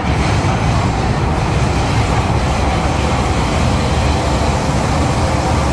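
MTR M-Train running on the Tseung Kwan O line, heard from inside the carriage: a steady rumble of wheels and running gear on the track.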